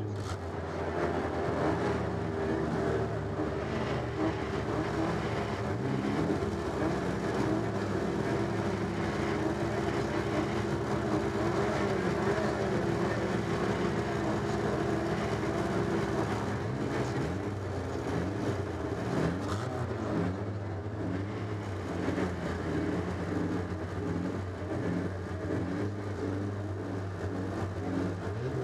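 Stock car engine idling steadily, heard from inside the car's cockpit, its note wavering slightly.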